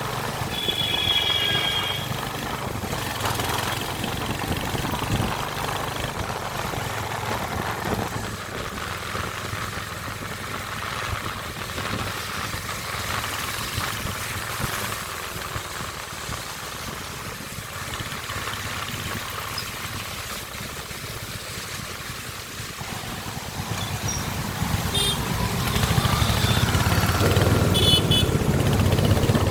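Royal Enfield Hunter 350's single-cylinder engine running under way, a steady low exhaust note that grows louder over the last few seconds. A horn sounds briefly about a second in.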